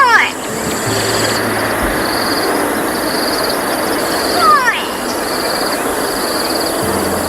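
Grey go-away bird giving its falling alarm call twice, about four and a half seconds apart, over a steady background hiss and a high insect trill that pulses about once a second.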